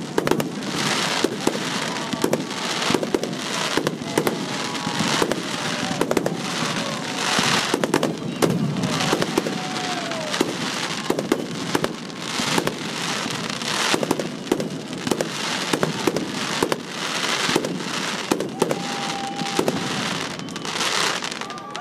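Aerial firework shells bursting in quick succession: a continuous run of bangs with crackling between them.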